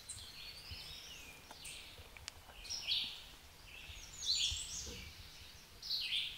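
A songbird singing short, high, repeated phrases, a new phrase every second or two.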